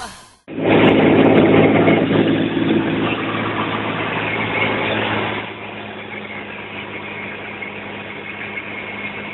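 Cessna light aircraft's piston engine and propeller droning steadily, heard from inside the cabin; the sound drops noticeably about five and a half seconds in.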